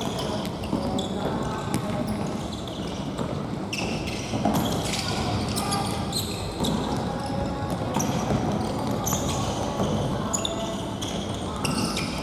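Indoor futsal game in a gymnasium: the ball being kicked and bouncing on the court, sneakers squeaking on the floor, and players calling out, with hall echo.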